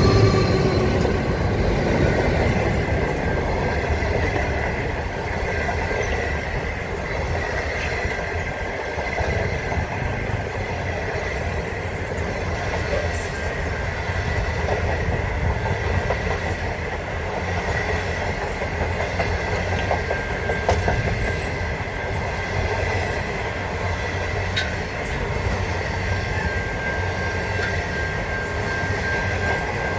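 A train running along the track: a steady rumble with a thin, steady high tone over it.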